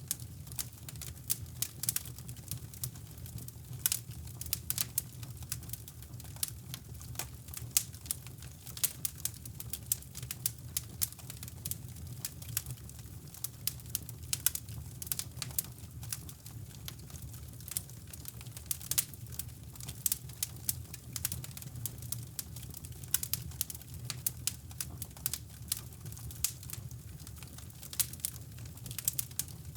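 Wood fire crackling in a fireplace, with irregular sharp pops and snaps, over a steady low brown-noise rumble.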